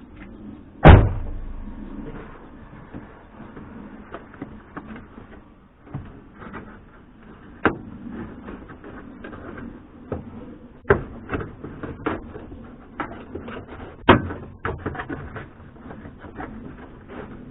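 Car interior trim being prised and knocked loose by hand: one loud knock about a second in, then scattered plastic clicks and taps with a few sharper knocks.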